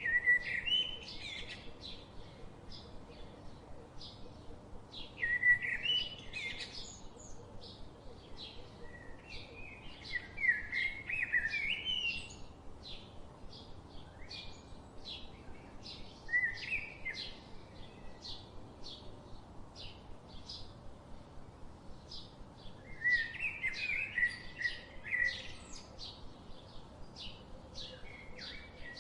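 Songbirds: one repeats short high chirps in a steady series, while another sings louder warbling phrases of a second or two, about five times, every few seconds.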